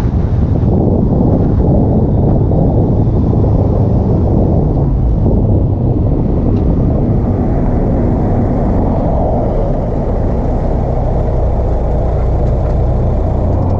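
Car engine fitted with an Acuity cold air intake, running steadily with a dense low rumble, mixed with wind buffeting the microphone.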